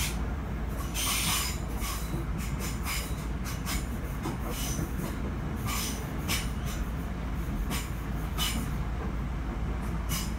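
Class 465 electric multiple unit running along the track, heard from inside the carriage: a steady low rumble of wheels on rails with frequent short, irregular bursts of high hissing clatter from the wheels and track.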